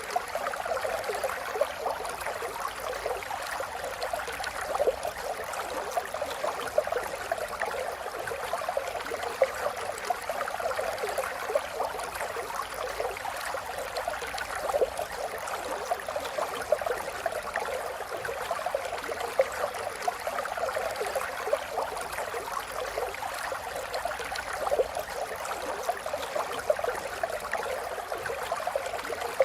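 A river flowing: steady rushing and splashing water with small gurgles and the odd louder splash.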